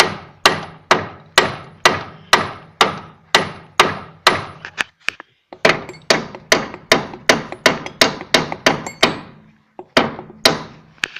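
Hammer blows on a 1989 VW Golf 2 wheel hub, knocking the seized hub out of its bearing without a puller. The metal strikes come steadily at about two a second, each ringing briefly. There is a short pause about five seconds in, then a faster run, and a few last blows near the end.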